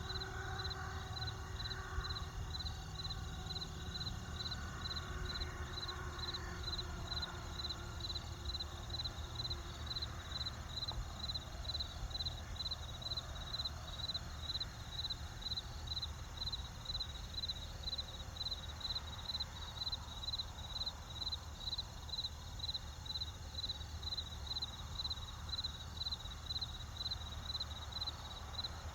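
Field crickets chirping in an even, steady rhythm of about two chirps a second, over the low steady rush of a campfire.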